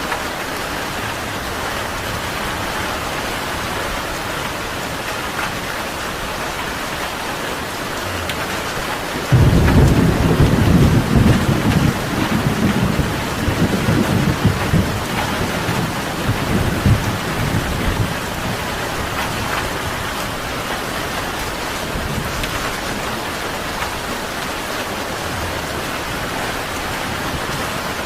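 Steady rain falling, with a thunderclap that breaks in suddenly about a third of the way through and rumbles on for several seconds before fading back under the rain.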